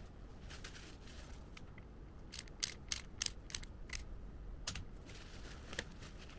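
A run of about seven sharp clicks, roughly three a second, starting a couple of seconds in, then two more single clicks, over a faint steady hiss.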